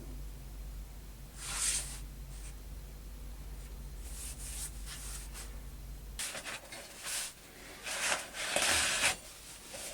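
Rustling and scraping of something being handled, in several short bursts that grow busier in the second half. A low steady hum runs underneath and stops about six seconds in.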